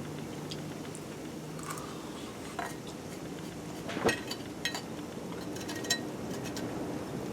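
Metal cutlery clinking against cookware as food is eaten: a few sharp, ringing clinks, the loudest about four seconds in.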